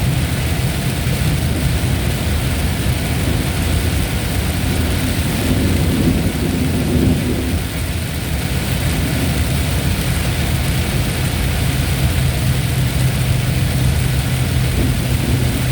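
Thunderstorm: steady heavy rain hissing, with a continuous low rumble underneath that swells briefly about six seconds in.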